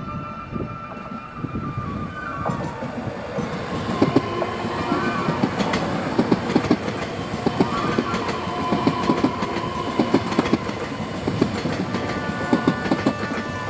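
Taiwan Railway electric multiple unit passing close by, its wheels clicking in a steady clickety-clack over the rail joints. The sound grows louder about four seconds in as the cars come alongside.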